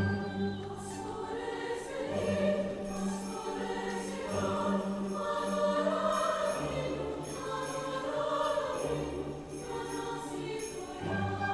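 Choir singing slow, sustained chords, with instruments accompanying.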